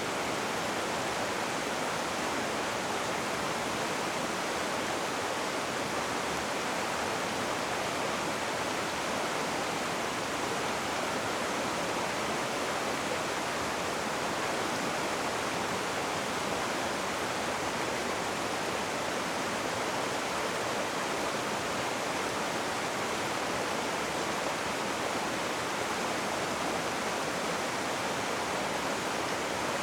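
Rushing river water, a steady even rush with no breaks or changes.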